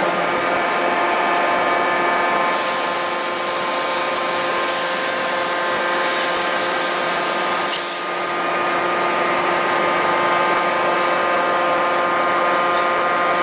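Industrial machinery in a forge shop running steadily: an even mechanical drone with several held hum tones and no hammer blows.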